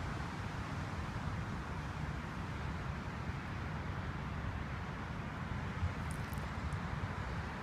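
Steady outdoor ambience: a fluttering low rumble with a hiss above it, and a few faint ticks about six seconds in.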